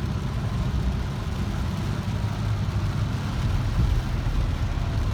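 Steady low engine and road rumble inside a moving vehicle's cabin.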